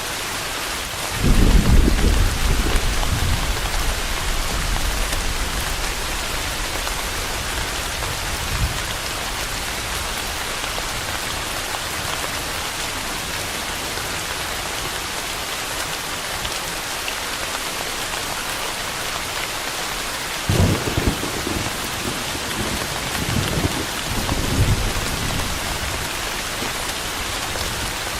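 Steady heavy rain hissing, with rolls of thunder rumbling low: one about a second in that fades over several seconds, and another about twenty seconds in, rolling on in waves for several seconds.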